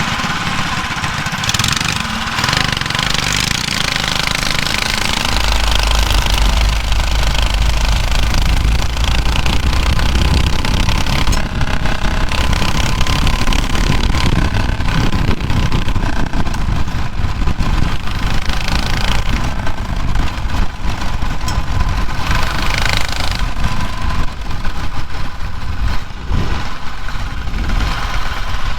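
Mini bike's small engine running as the bike is ridden, with a strong low rumble between about five and ten seconds in.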